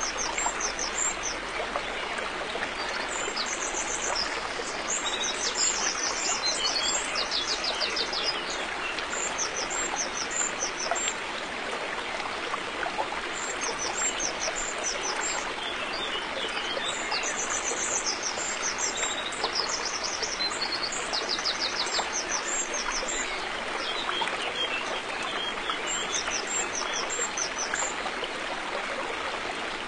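River water flowing in a steady rush, with small birds chirping in short high, quickly repeated phrases every few seconds above it.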